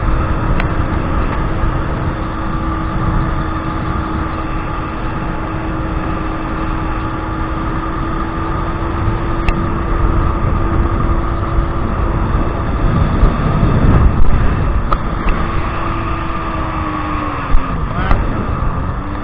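Kawasaki 1200 jet ski engine running at speed under heavy wind and water rush, its pitch steady for most of the time, then falling and rising again near the end as the throttle eases and opens for a corner.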